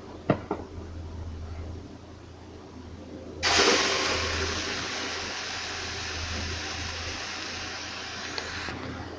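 A couple of light clicks, then beef laid into a hot pan of melted butter: a sudden loud sizzle about three and a half seconds in that settles into a steady sizzle and eases a little near the end.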